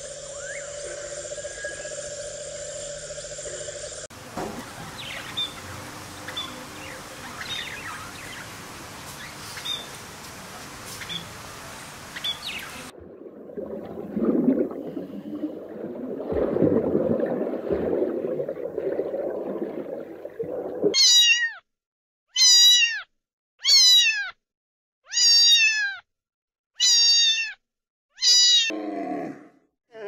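A run of edited-together animal sounds: a steady hum at first, then a hissy stretch with faint chirps, then a low rough rumble. From about two-thirds of the way through, a cat meows loudly six times, each meow falling in pitch, about one and a half seconds apart.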